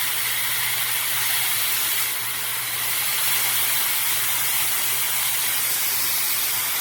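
Fanttik Solo 6-in-1 air styler, an ionic hair dryer brush, running with its fan blowing a steady, loud hiss of air.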